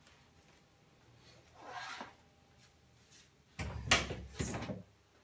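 Workshop handling noise: a faint rustle about two seconds in, then a louder stretch of knocking and scraping about a second before the end as a flat PVC display panel is picked up and moved on a wooden workbench.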